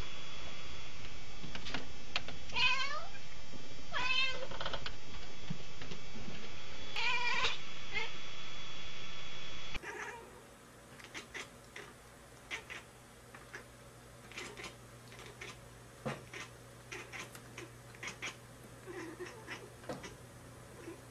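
Domestic cats chattering. First come three loud, wavering stuttered calls that step down in pitch. After a cut about ten seconds in, a second cat makes much fainter, quick irregular clicks with its mouth open.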